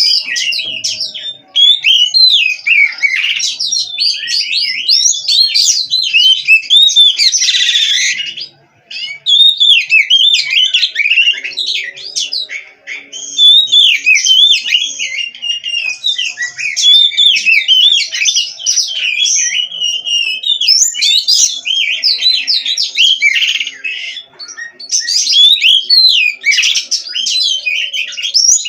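Oriental magpie-robin (kacer) singing nonstop: a fast, unbroken run of varied whistled and buzzy phrases, with a brief pause about nine seconds in.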